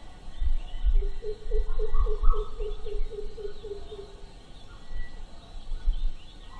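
A bird calling: a rapid series of about a dozen low hooting notes, roughly four a second, starting about a second in and lasting nearly three seconds, over low irregular rumbling.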